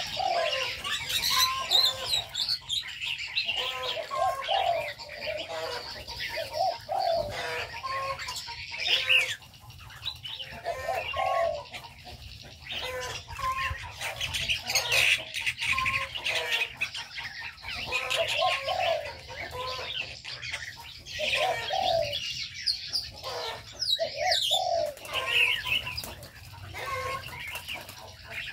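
Mixed aviary birds calling: a steady chatter of high chirps and twitters, with short low calls repeating every second or two that sound like doves cooing.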